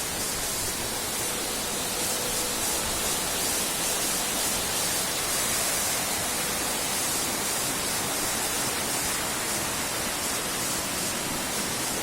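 Waterfall in full flow: a steady, unbroken rush of falling water.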